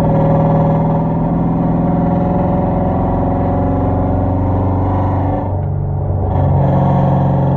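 Exhaust of a straight-piped Hyundai Genesis 5.0 V8 with Flowmaster Super 10 mufflers and no catalytic converters, running loud and steady under way. The note breaks off briefly about five and a half seconds in and comes back lower in pitch.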